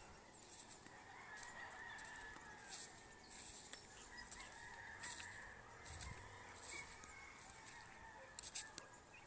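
Faint calls of birds, with short, high, hissing rustles repeating every second or so.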